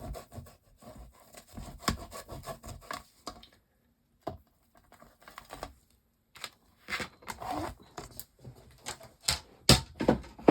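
A stamp being rubbed clean with a wet wipe, a scrubbing, rasping sound for the first few seconds. After a short pause come a series of sharp clicks and knocks as craft tools and card are handled.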